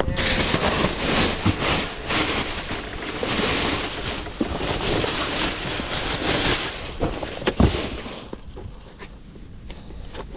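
Wind buffeting the microphone, a steady rushing with low rumble that eases about eight seconds in.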